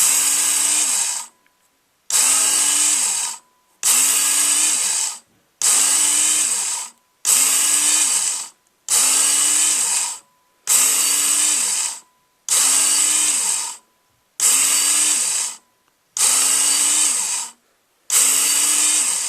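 Work Sharp electric belt knife sharpener running in short passes: eleven evenly spaced runs of about a second and a half each, the motor hum and the fine abrasive belt hissing against the steel blade, each cut off by a brief silence before the next. The repeated passes on the fine purple belt are the final honing and polishing of the edge.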